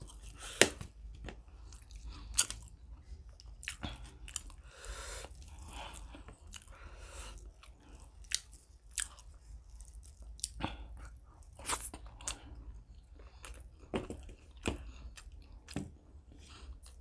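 Close-up mouth sounds of a person chewing chicken liver and paratha, with irregular sharp smacks and clicks.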